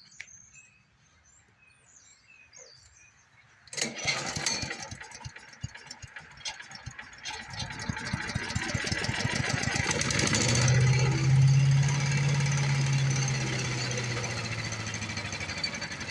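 Predator small gas engine on a wood chipper starting about four seconds in, firing in rapid uneven pulses and picking up to a steady run before slowly sagging. The owner suspects a carburetor problem starving it of fuel, with something blocking it.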